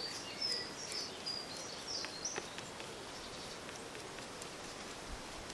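Small birds chirping in the background, a few short high calls mostly in the first half, over a faint steady hiss, with a few faint ticks.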